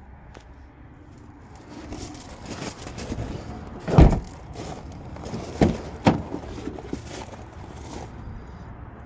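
Thumps and rustling from someone moving about inside a car: one heavy thud about four seconds in, then two sharper knocks about a second and a half later.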